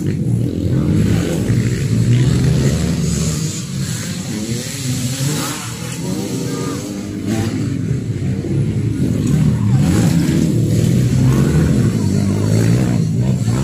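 Motocross bike engines revving hard, pitch rising and falling as the riders accelerate and back off around the track.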